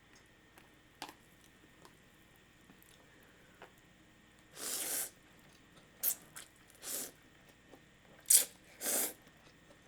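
Close-up eating sounds: a few faint mouth clicks, then from about halfway several short slurps and a sharp click near the end.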